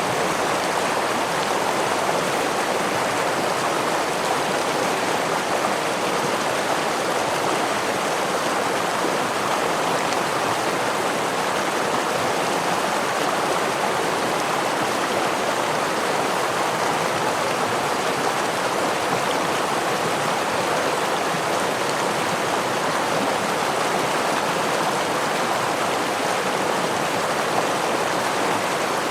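Water running in a stream with a small waterfall: a steady, even rush with no changes.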